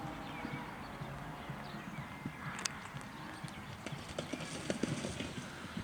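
A horse's hoofbeats: irregular thudding knocks, coming thicker in the second half.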